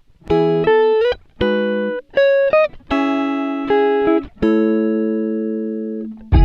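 Background music: a plucked guitar playing a run of notes and chords that each ring out and fade, with a couple of notes sliding up in pitch.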